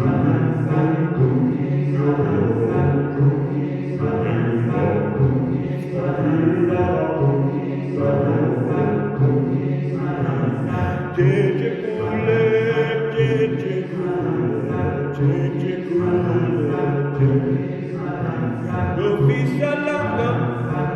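A group of voices singing a rhythmic, chant-like song together, its short phrases repeating about every two seconds over a steady low beat.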